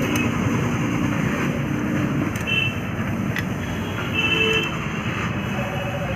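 Steady background road-traffic noise, with two brief high tones about two and a half and four seconds in.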